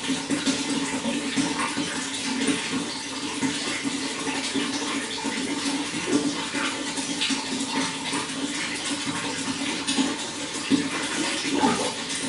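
Running water flowing steadily, with many small splashes and gurgles throughout.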